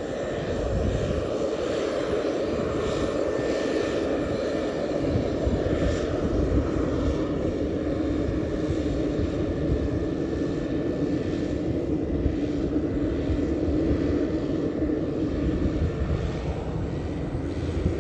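Pilatus PC-12's single turboprop engine running at high power, a steady drone with a thin whine above it.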